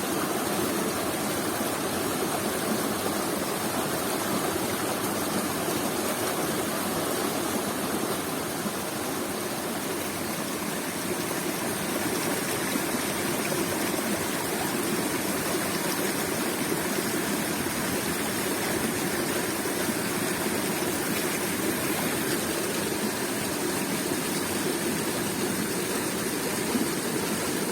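Waterfall: water falling and rushing in a steady, even roar of white-noise-like sound without breaks.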